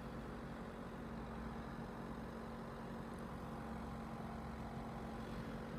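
Steady low drone of a Class 197 diesel multiple unit's engine running, with a constant hum and no change in pitch.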